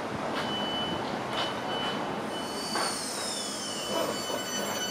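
Southeastern electric multiple unit pulling away, with a steady high whine and a second whine falling in pitch about halfway through. The wheels knock over rail joints four or five times.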